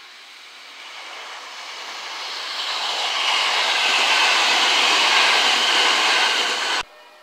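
JR West 227 series electric train passing through a station at speed, its wheels running on the rails. The noise builds over about three seconds, stays loud, then cuts off suddenly near the end.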